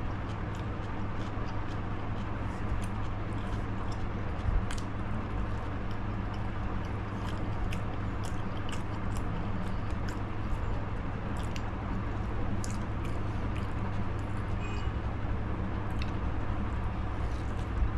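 A person chewing and biting fried iftar snacks close to the microphone, with many small sharp mouth clicks, over a steady low background hum.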